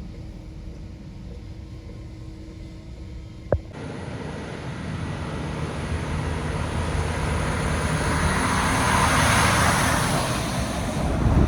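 Heavy truck on the road, approaching and passing: a low engine rumble with tyre and wind noise that swells to a peak about nine seconds in, then eases. A single sharp click about three and a half seconds in.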